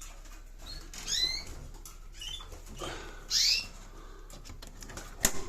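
Canaries calling with short, rising chirps, repeated several times, and a sharp click near the end.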